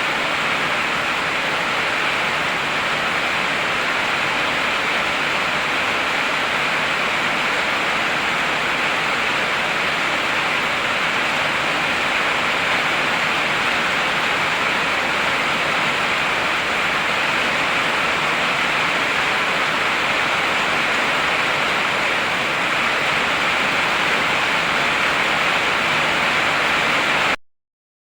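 Heavy rainfall as a steady, dense hiss with no thunder, cutting off abruptly to dead silence about a second before the end.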